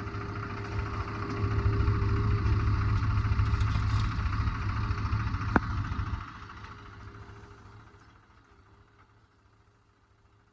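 Heavy diesel engine running with a low, rapid clatter, a sharp click about five and a half seconds in; about six seconds in the engine sound drops away suddenly and fades to quiet, leaving a faint steady hum.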